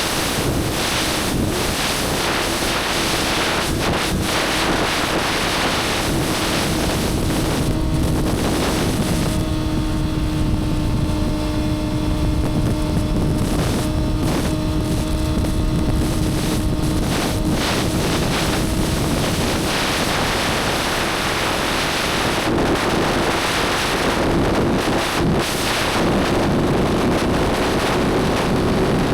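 Motorcycle engine running at a steady cruise, heavily overlaid by wind rushing on the microphone. Its note holds level through the middle, then rises a little near the end as the revs pick up.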